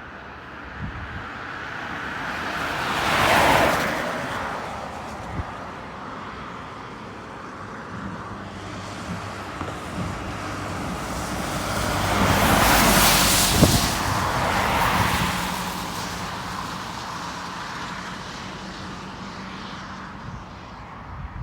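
Vehicles passing close by: a short pass peaking about three seconds in and a longer, louder one around thirteen seconds, over a low steady engine hum.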